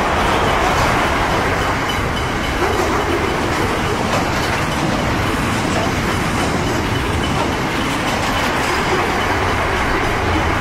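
Intermodal freight train's container wagons rolling past close by: a steady, loud noise of steel wheels running on the rails.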